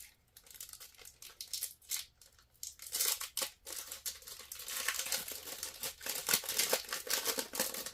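Trading card pack wrapper being torn open and crinkled. Scattered crackles at first, then denser, louder crinkling from about three seconds in.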